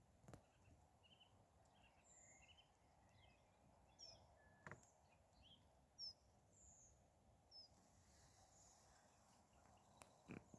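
Faint songbird calls, scattered short chirps and whistles over a quiet background, with a few sharp clicks.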